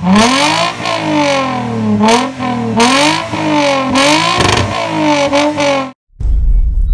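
Car engine being revved over and over, its pitch rising and falling about once a second. It cuts off abruptly near the end, and a low, steady throb follows.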